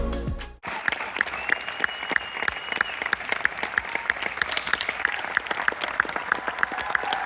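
Theatre audience applauding at a curtain call, a dense crackle of clapping that starts just after music cuts off about half a second in.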